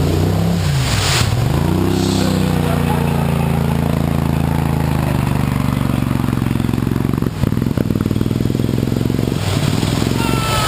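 Rail-style mud-bogging buggy's engine running hard, its pitch dipping and climbing back up about a second in, then holding steady, with a few short knocks around the middle.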